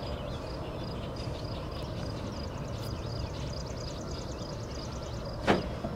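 Distant freight train of diesel locomotives approaching, a low steady rumble, with a faint high chirp repeating about three times a second over it. A short sharp sound stands out near the end.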